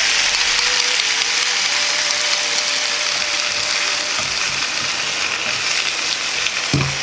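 Vegetables sizzling steadily in a frying pan over low heat just after the mixed seasoning liquid has gone in, stirred with chopsticks; the sizzle eases a little as it goes, with a knock near the end.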